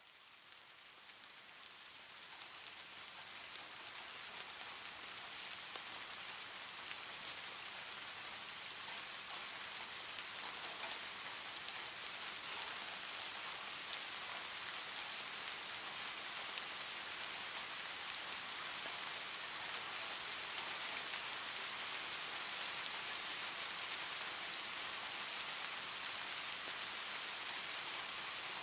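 Steady heavy rain, a dense even patter that fades in over the first few seconds and then holds level.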